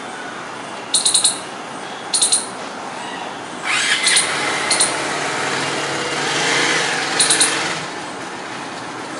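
Northern palm squirrel chirping in short, rapid series of three or four sharp, high chips, repeated about five times. Steady traffic noise runs underneath and grows louder in the middle.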